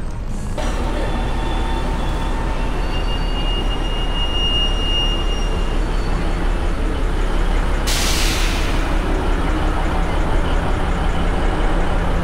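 Alishan Forest Railway train running: a steady low rumble. A thin high squeal holds for about two seconds starting about three seconds in, and a sudden hiss lasts about a second about eight seconds in.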